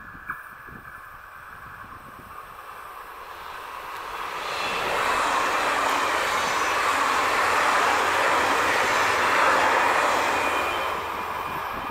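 Red regional electric multiple-unit train passing close by: a rush of wheels on rails that builds from about four seconds in, stays loud for several seconds as the cars go past, and eases a little near the end.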